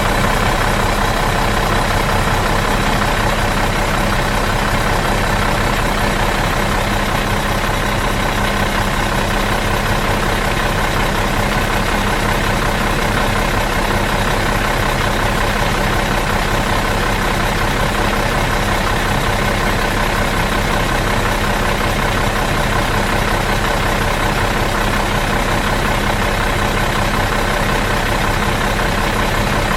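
Bus engine idling steadily out of gear, an even low running hum with no change in speed.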